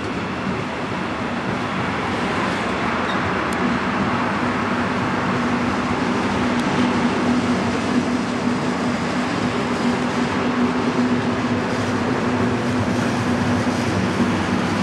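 A diesel locomotive hauling a rake of double-deck passenger coaches past: a steady engine drone over the rolling noise of the train.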